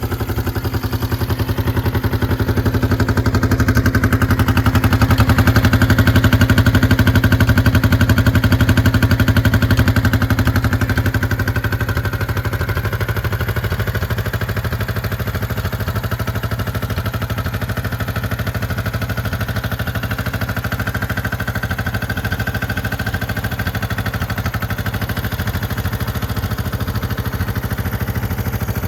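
1972 Honda CL350's air-cooled parallel-twin engine running just after start-up, swelling in the first few seconds, then easing off about eleven seconds in and settling to a steady idle.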